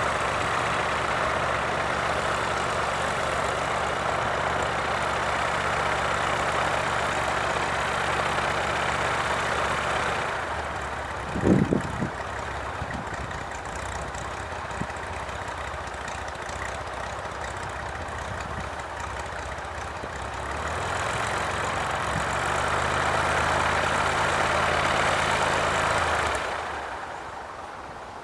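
Cessna 172H Skyhawk's six-cylinder Continental O-300 engine and propeller droning steadily. It fades about ten seconds in, with a brief loud bump soon after, swells again around twenty seconds in, and drops away near the end.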